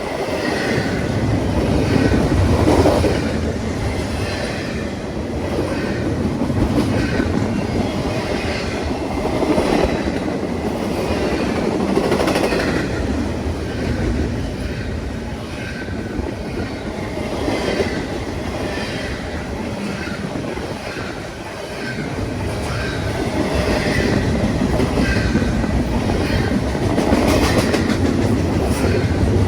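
A train's cars rolling past, steel wheels knocking in a repeated clickety-clack over the rail joints above a steady rumble, with a faint high wheel squeal here and there.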